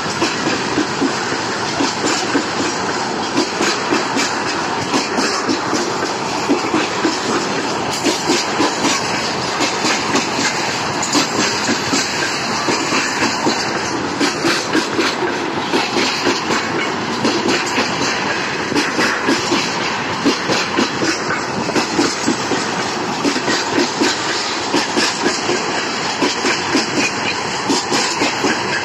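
Freight train tank wagons rolling past close by, with a steady rumble and a continuous rhythmic clickety-clack of the wheels over the rail joints.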